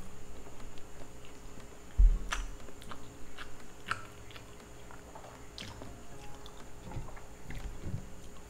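Close-miked chewing and biting of a mouthful of food, with many small wet clicks and smacks. A dull thump about two seconds in is the loudest sound.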